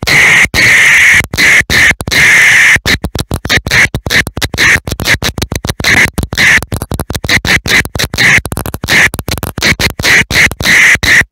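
Dense fireworks barrage firing many effects at once: very loud, continuous crackling and hissing with a shrill high edge. It is chopped by dozens of brief, sudden gaps in the sound.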